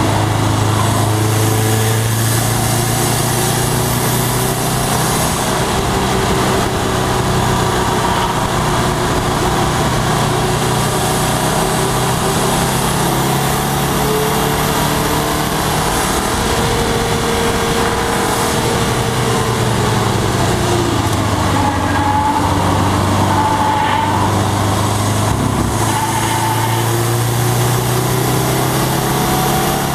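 2011 Subaru WRX's turbocharged flat-four engine running hard at track-day pace, its pitch rising and falling through the gears, with a clear drop and climb again about two-thirds of the way through. Steady wind and tyre noise underneath.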